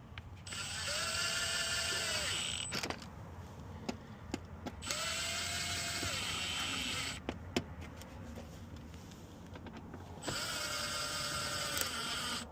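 Power drill-driver running in three bursts of about two seconds each, spinning up and winding down each time, as it drives small fasteners home. Light clicks of handling come between the bursts.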